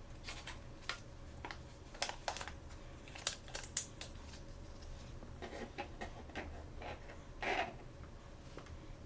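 Hands handling small plastic toys and their packaging: scattered light clicks and taps with short crinkles, and a longer rustle near the end.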